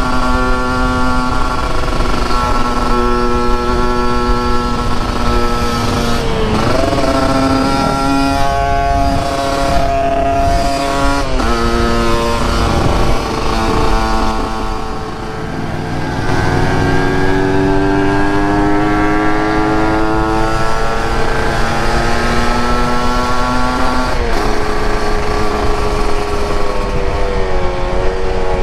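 Motorcycle engine under way, heard from the bike's own handlebars: its pitch holds steady for stretches, drops sharply at gear changes about six, eleven and twenty-four seconds in, and climbs gradually as it accelerates in between. A low, steady rush of wind and road noise runs underneath.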